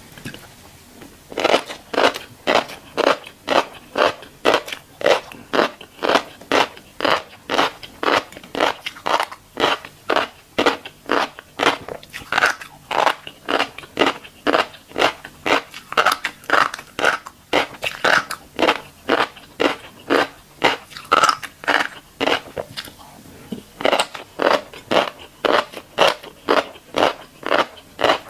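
Close-miked chewing of a mouthful of crunchy tiny black seeds, a crisp crunch about twice a second in a steady rhythm, easing off briefly about three quarters of the way through and then picking up again.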